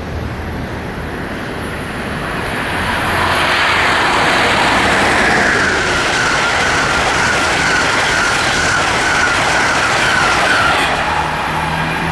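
Passenger train running past, with a steady rush and rattle of wheels on rail that gets louder about three seconds in. A high whine holds from then until shortly before the end.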